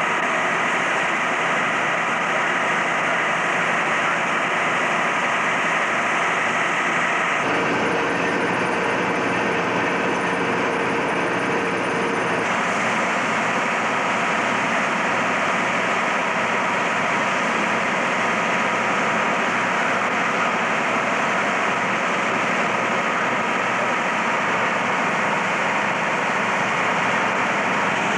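A heavy vehicle engine running steadily with a constant drone; the sound changes abruptly twice, about 7 and 12 seconds in.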